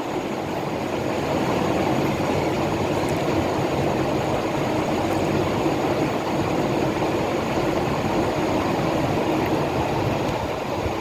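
Steady, loud mechanical drone with a faint constant hum, unchanging throughout.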